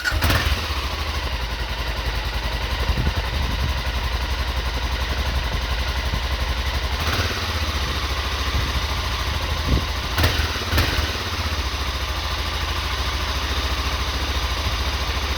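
BMW F650's 650cc single-cylinder engine starting up and running at idle, with a few brief blips of the throttle.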